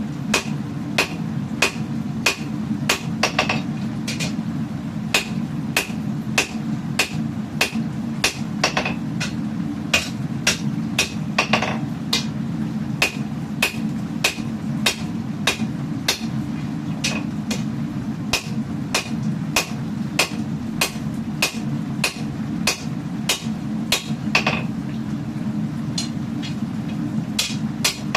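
Hand hammer striking steel on an anvil while forging a katana blade, about two blows a second with a few short pauses. Each blow gives a short metallic ring, over a steady low hum.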